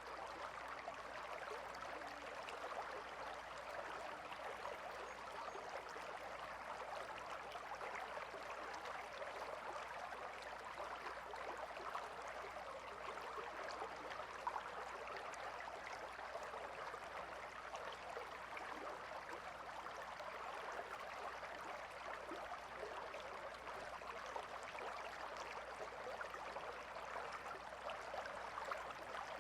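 Shallow river flowing gently, a steady even rush of water with fine splashing.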